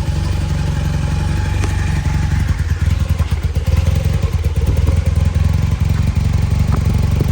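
1985 Honda CB450SC's parallel-twin engine running steadily, still warming up after a cold start from sitting several weeks. It turns a little rougher and louder from about three seconds in.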